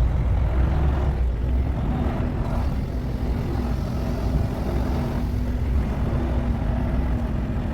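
Semi-truck diesel engine running with a steady low rumble, a steady hum joining in about a second and a half in.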